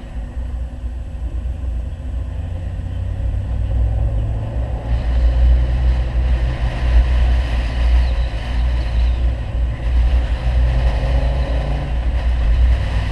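Audi 100 2.3 quattro's five-cylinder engine with a CAC exhaust, running with a steady, deep rumble while driving, louder from about five seconds in.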